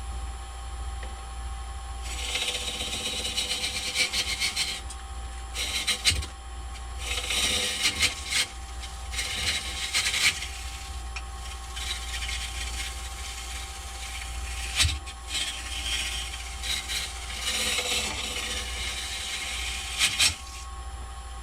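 Wood lathe running with a steady hum while a turning tool cuts the spinning green poplar blank in repeated passes, each pass a burst of hissing, scraping cutting noise of one to three seconds.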